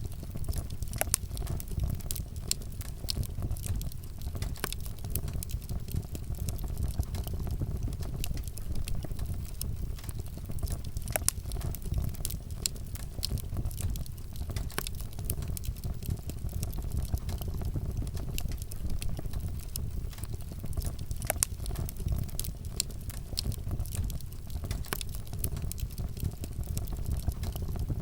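Wood fire burning with a steady low rumble and frequent sharp crackles and pops at irregular moments.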